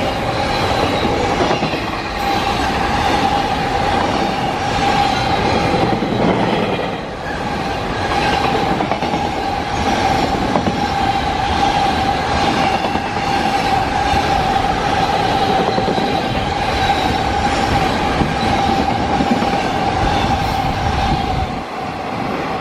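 Freight train passing close by, its long line of wagons rumbling and clattering over the rails with a steady high-pitched squeal over it. The noise drops away near the end as the train clears.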